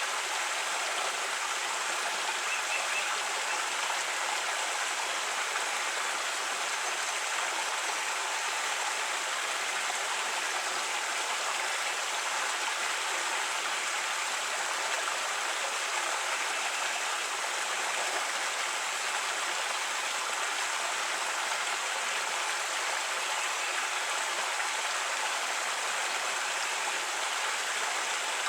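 Creek water running and babbling steadily, an even rushing splash with no breaks.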